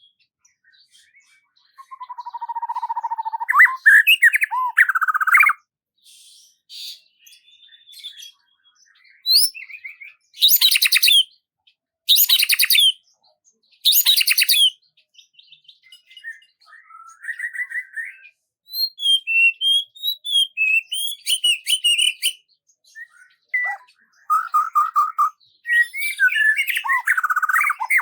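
Songbird singing in separate phrases with silent gaps between: a buzzy trill early on, three loud raspy notes about a second and a half apart near the middle, then a run of quick high chirps and further trills near the end.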